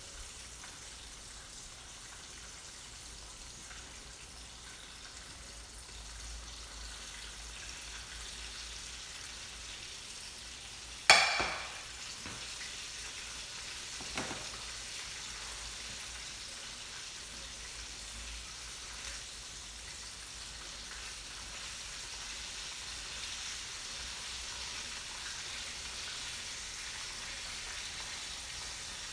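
Pretzel-crumb-coated chicken frying in hot oil, a steady sizzle. A single sharp knock about eleven seconds in, and a smaller one about three seconds later.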